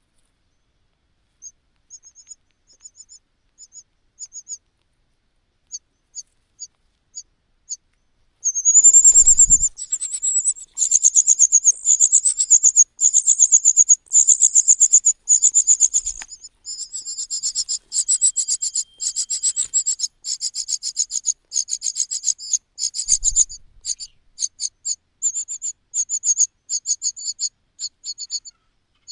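Cuckoo chick begging calls: high-pitched rapid chirps, scattered at first, then from about eight seconds in a loud, nearly continuous rapid stream of calls, typical of a chick begging as the host parent feeds it.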